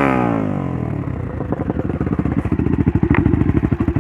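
Trail motorcycle engine settling down from a rev, its pitch falling over the first second, then idling with a rapid, even beat.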